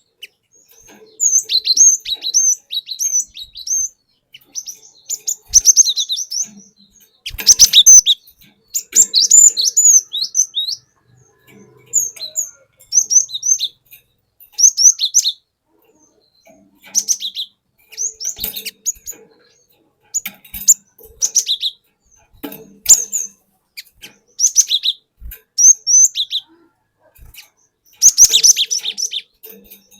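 Cinereous tit (glatik batu) singing: loud, quick whistled phrases of several sweeping notes, repeated in short bursts with brief pauses between them.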